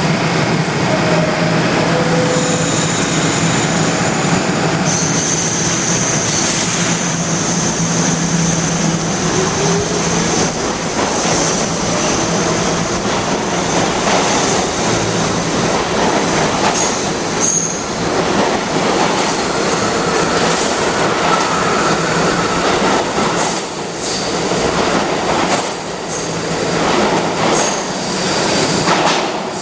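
New York City subway train running through an underground station: a steady loud rattle of steel wheels on the rails with high-pitched wheel squeal, and a few sharp clacks over the rail joints near the end.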